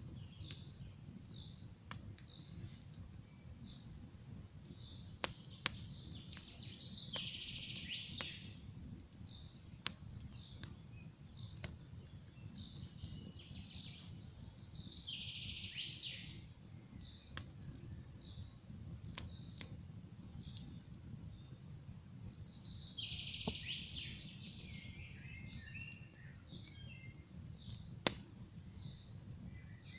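Campfire crackling, with scattered sharp pops over a low steady rumble, while birds sing in the forest: one bird repeats a short high note over and over, and fuller song phrases come in three times.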